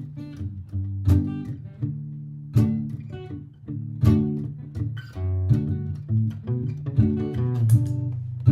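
Martin GPCPA4 acoustic guitar through a looper: a strummed chord pattern in D repeats, with a strong strum about every one and a half seconds, while single-note lines are picked over it.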